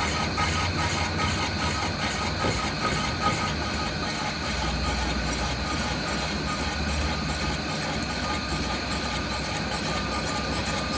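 Workshop machinery running steadily, with a low rumble, a steady tone and a light, regular ticking.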